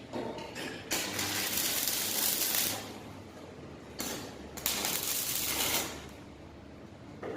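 Welding arc crackling on steel in three bursts: a long one about a second in, then a short one and a longer one around the middle.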